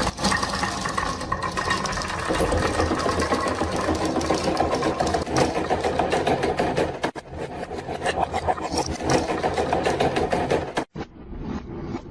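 Many marbles rolling and clattering down a marble run track: a dense, continuous rattle of quick clicks that starts suddenly and breaks off for a moment near the end.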